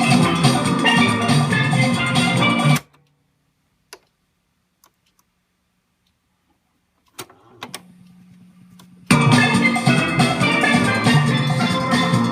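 Music with drums played through a Panasonic SG-J800 boombox, stopping abruptly after about three seconds. A few faint clicks follow, then a low steady hum, and the music starts again about nine seconds in.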